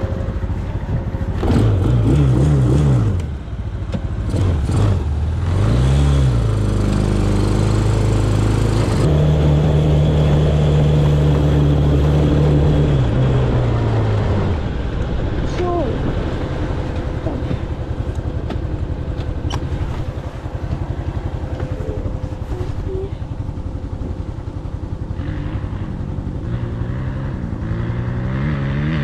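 Off-road vehicle engine being revved hard. It rises and falls in pitch twice early on, holds at high revs for several seconds in the middle, then drops to a lower, steadier run.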